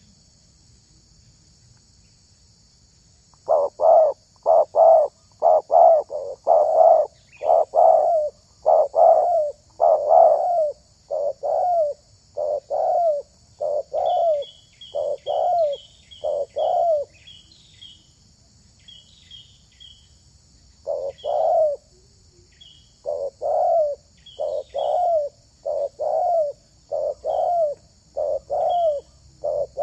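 Spotted dove (tekukur) cooing: a long series of low, evenly repeated coos that begins a few seconds in, breaks off for a few seconds in the middle, then resumes. Faint short high chirps from another bird sound over the second half.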